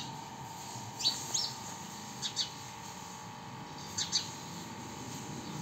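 Small bird chirping in quick double chirps, three times over a few seconds, over a steady faint background hum.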